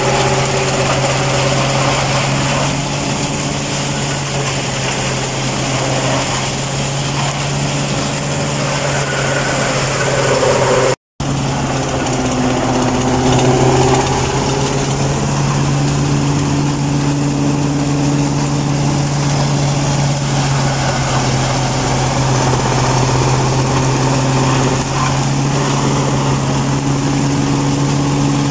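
Tractor engine running with a tractor-mounted forage harvester in operation: a loud, steady mechanical drone with a constant low hum. The sound breaks off for a moment about eleven seconds in, then carries on the same.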